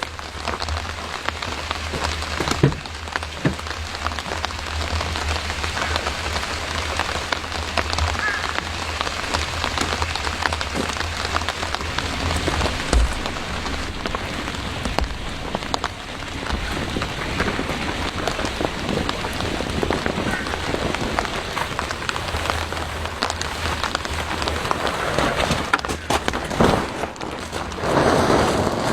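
Steady rain falling, many small drop ticks over a continuous hiss.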